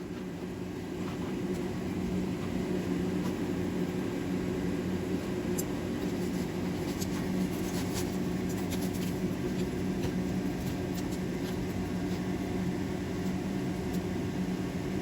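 Forge blower running steadily with a low hum, coming up in level over the first couple of seconds, with a few faint light ticks partway through.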